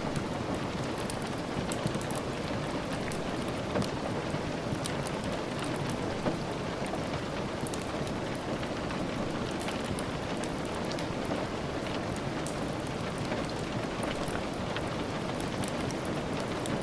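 Steady rain falling, an even hiss with many small, scattered clicks of drops or crackles throughout.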